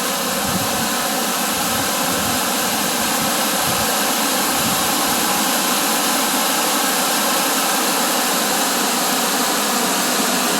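Waterfall on a creek: a loud, steady rush of falling water.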